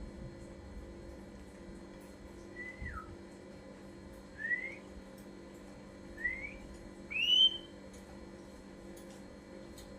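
Ashy drongo giving four separate whistled notes a second or two apart: the first slides down, the other three slide up, and the last is the loudest and highest.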